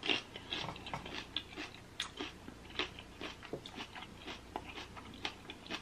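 Close-miked chewing of a bite of sauce-coated pepper: quiet, irregular crunches and wet mouth clicks, several a second.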